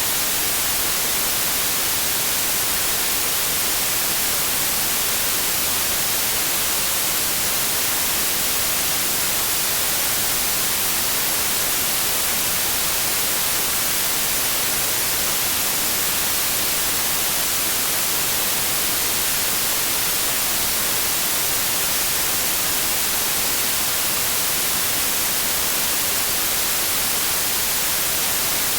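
Steady electronically generated white noise: an even hiss with a flat spectrum, no changes or events.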